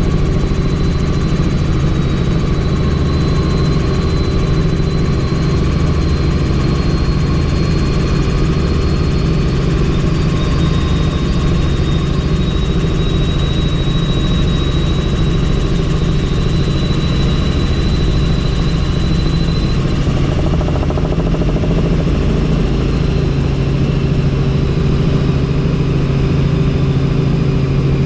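Helicopter in steady cruise flight, heard from on board: continuous rotor and engine noise with a thin, steady high turbine whine.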